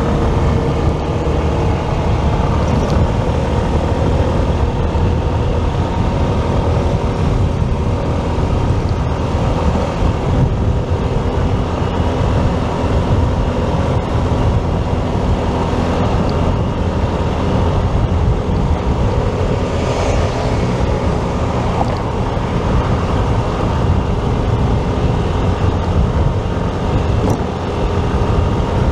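Motorcycle riding on the road: its engine running steadily under a heavy low rush of wind on the microphone.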